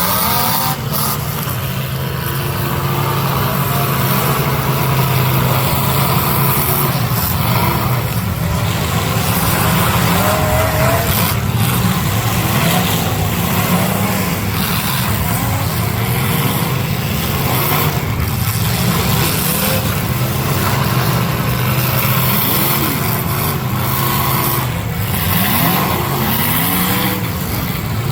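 Several demolition derby cars' engines revving hard and dropping back, with a few sharp crashes of metal on metal scattered through.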